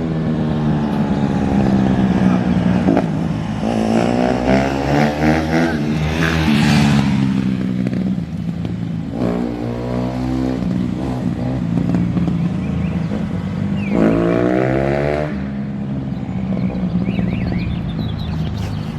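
Honda CRF150R dirt bike's single-cylinder four-stroke engine running and revving up. The pitch climbs in three runs, starting about four, nine and fourteen seconds in, with lower steady running between them.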